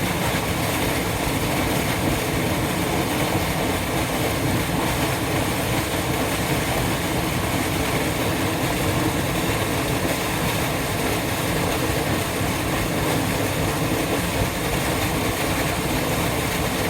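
Waterfall on a mountain river: a steady, loud rush of falling water.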